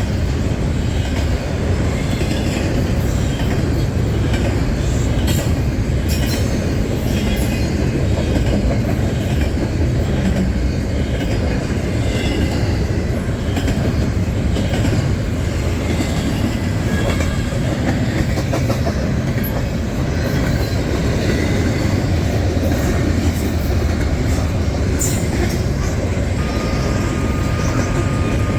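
CSX freight train rolling past at close range: a steady rumble of cars with wheels clicking over the rail joints. A thin steady tone comes in near the end.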